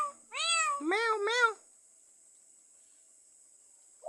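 Pet myna mimicking a cat's meow: a run of meow-like calls, a longer one followed by two shorter, quicker ones, all within the first second and a half.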